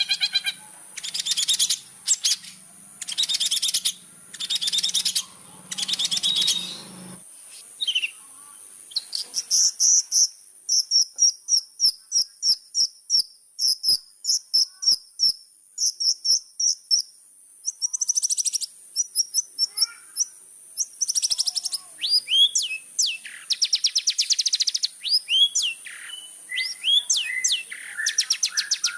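Long-tailed shrike (cendet) singing a vigorous, varied chattering song. It opens with harsh, buzzy phrases in the first seven seconds, then a fast run of short repeated notes, then whistled notes gliding up and down near the end, over a steady high-pitched tone.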